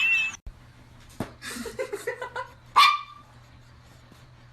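A dog barking: a quick run of short, soft yips, then one sharper, louder bark just under three seconds in.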